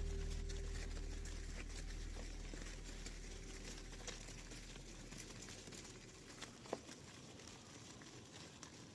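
Faint scattered patter and clicks of cattle hooves stepping in mud, with one sharper click about seven seconds in. The tail of a low music note fades out over the first few seconds.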